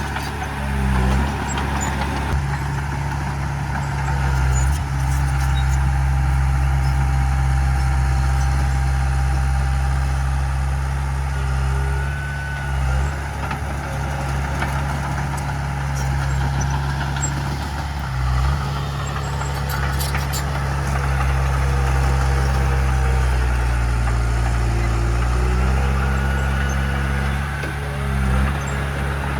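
Heavy diesel engine of earthmoving machinery running steadily, its pitch dipping and recovering briefly a few times.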